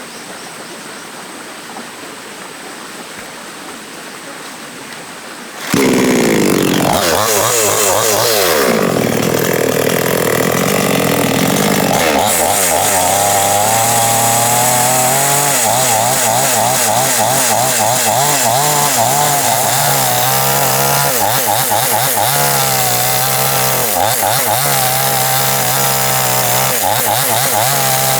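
A chainsaw comes in suddenly about six seconds in and runs loud and steady, its pitch wavering up and down under the throttle, after a faint outdoor hiss.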